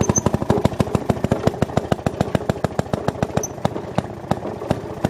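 Maytag Model 92 single-cylinder two-stroke engine running a wringer washer, firing in sharp, evenly spaced exhaust pops about ten times a second. It runs with no muffler.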